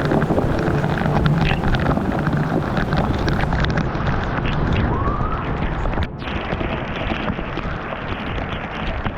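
Waterfall rushing: a steady, dense wash of falling water. It drops a little in level suddenly about six seconds in.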